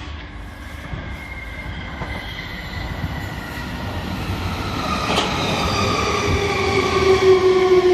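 Electric multiple-unit train drawing in and slowing, growing louder, with a whine of several tones that falls slowly in pitch. There is a single click a little past the middle.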